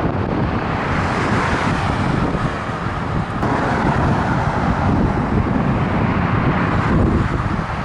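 Wind rushing over the microphone of a head-mounted camera on a moving bicycle, mixed with road traffic noise that swells and fades as vehicles go by.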